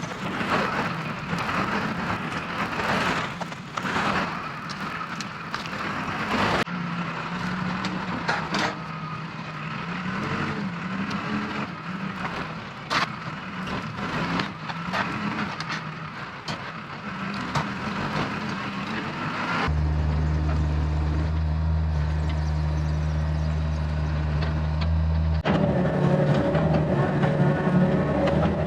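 Diesel engines of heavy earthmoving equipment running and working. Scattered cracks and knocks come in the first few seconds. The engine sound changes abruptly several times: a wavering working pitch, then a steady low drone from about 20 s in, then a higher drone near the end.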